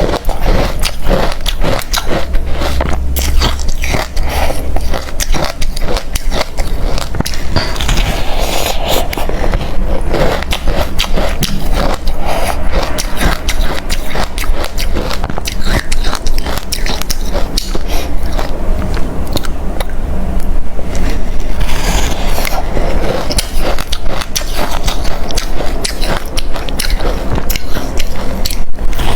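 Close-miked crunching of hard refrozen crushed ice being bitten and chewed, a dense run of sharp, irregular cracks and crackles.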